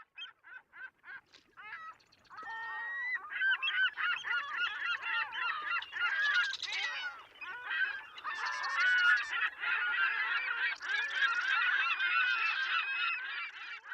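A flock of birds calling. A few quick separate calls come first, then about two and a half seconds in they swell into a loud, dense chorus of many overlapping calls.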